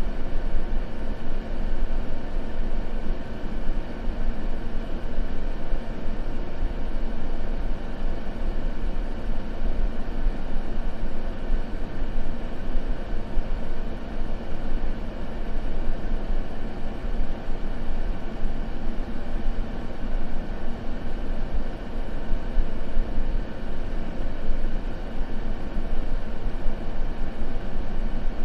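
Steady, unchanging white noise for sleep, with most of its weight in the low end so it sounds like a deep, even rumble.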